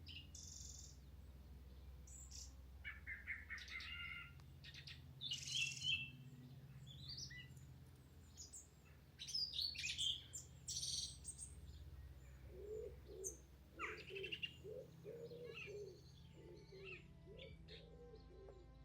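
Several birds chirping and singing in short bursts of high chirps and trills, over a faint steady low background. In the second half a lower call repeats rhythmically.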